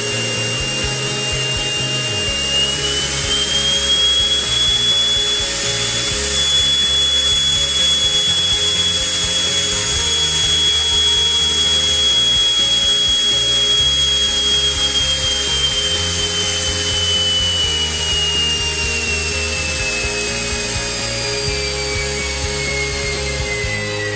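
Small 3D-printed turbine jet engine whining at high speed, the pitch rising slightly and holding, then falling steadily as the engine spools down, over background music with a bass line.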